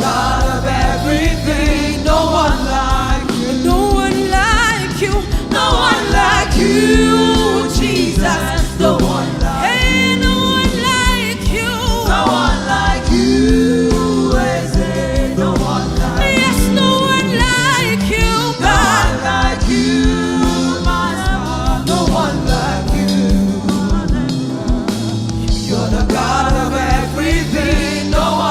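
Gospel praise-and-worship music: voices singing over instrumental backing with a steady beat.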